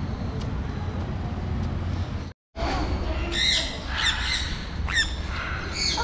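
Birds squawking in short, curved calls from about three seconds in, repeated several times over a steady low rumble. The sound drops out completely for a moment just after two seconds.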